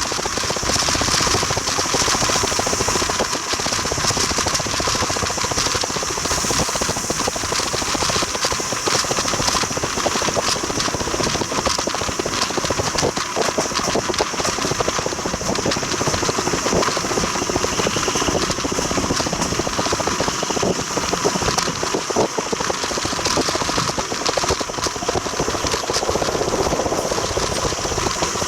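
Railway carriage running along the track: a steady rattle and rumble of wheels and running gear that holds on without a break.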